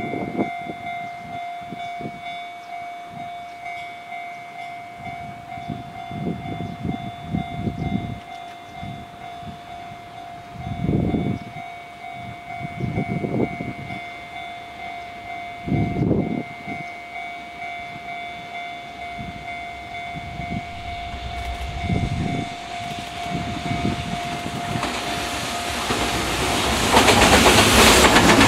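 JR Freight container train hauled by an EF210 electric locomotive, approaching and then passing close by: the noise of wheels on rail builds and becomes loud about a second and a half before the end, as the container wagons roll past. Before that, a steady high tone holds until near the end, with a few low rumbles.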